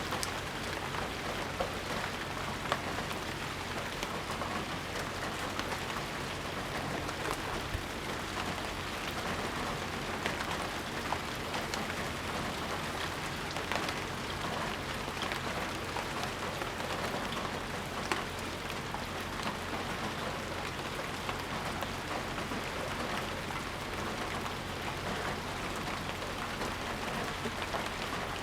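Steady rain falling, with many individual drops pattering and tapping on surfaces.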